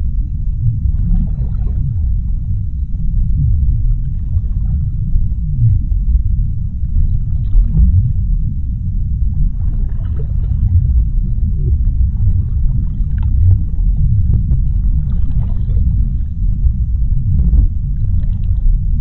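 Underwater ocean ambience: a deep, steady rumble of moving water, with faint swishes rising and falling every second or two.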